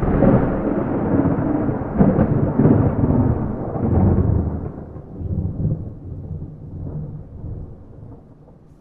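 Thunder with no rain: a rolling rumble with several loud swells over the first four seconds, including a sharp crack about two seconds in, then dying away over the rest.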